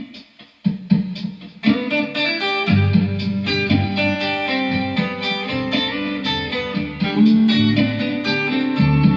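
Guitar music, the instrumental introduction to a devotional song: a few separate strummed chords with short gaps, then from about two seconds in a fuller, continuous accompaniment with lower notes underneath.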